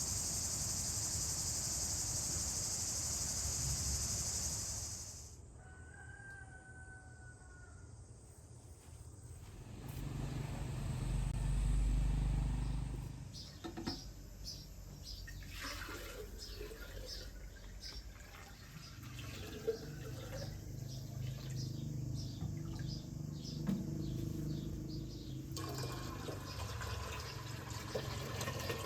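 A run of outdoor sounds: a steady rush of water for about five seconds, then quieter stretches with a low rumble and many short bird chirps.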